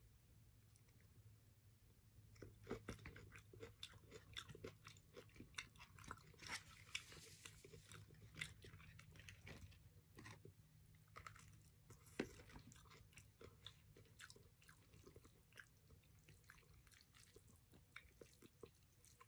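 Faint close-up chewing of crispy-skinned Chickenjoy fried chicken: the breaded skin crunches in many small crisp crackles, coming thickly in the first half and thinning out later.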